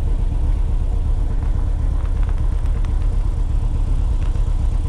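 Car running with a steady low rumble of engine and road noise.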